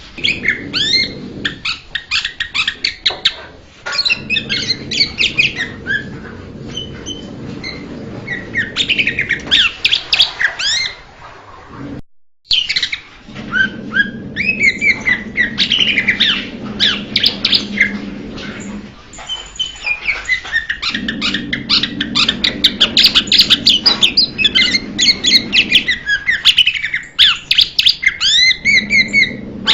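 Blue-winged leafbird song: fast, continuous runs of short chirps and whistles that slide up and down in pitch, over a faint steady low hum. The song breaks off for a moment about twelve seconds in.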